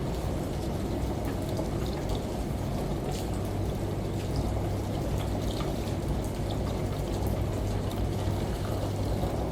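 Steady rushing water, as from a shower, with scattered raindrop ticks over a constant low hum from a running washing machine, mixed as one even ambience.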